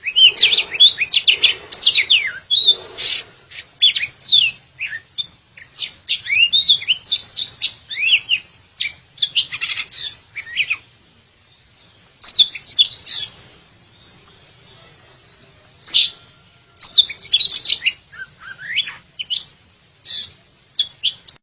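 Oriental magpie-robin (kacer) singing a fast, varied song of sweeping whistles and sharp chirps, breaking off twice in the middle before resuming.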